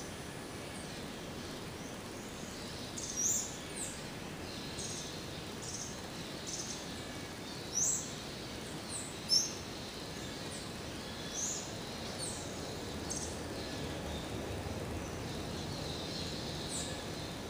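Birds chirping: short high calls every second or so, a few of them louder, over a steady background noise.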